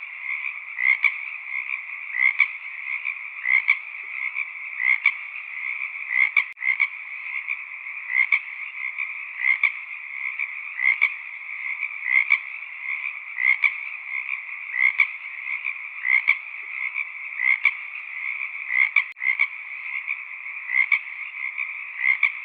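Frog chorus: a steady high-pitched trilling hum, with louder individual calls standing out about once every second and a quarter.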